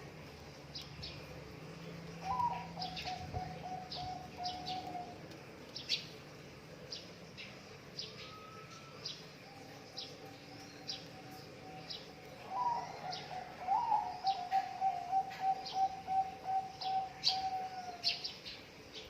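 Zebra dove (perkutut) cooing: two long phrases, each opening with a short higher note and running on as a purring coo, the second louder and rapidly pulsing near the end. Short high chirps from a small bird are scattered throughout.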